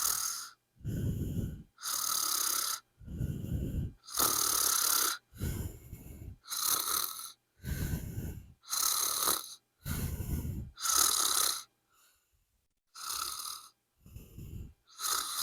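Comic, exaggerated snoring: a low rumbling snore on the in-breath alternates with an airy, wheezy breath out, about one cycle every two seconds, with a short pause about twelve seconds in.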